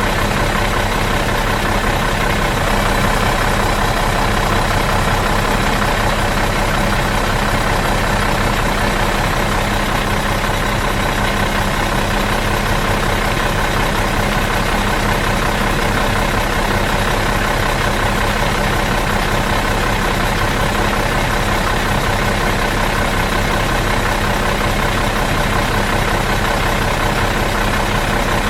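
Bus engine idling steadily out of gear, an even, unchanging hum with no revs.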